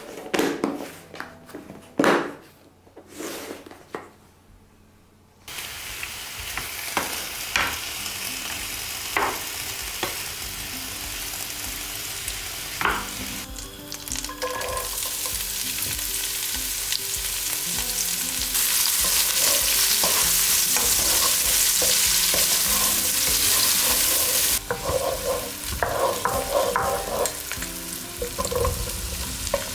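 Food frying in a hot pan and being stirred, with utensils clinking against it. A few knocks come first, then the sizzle starts suddenly about five seconds in and grows louder for a while in the middle.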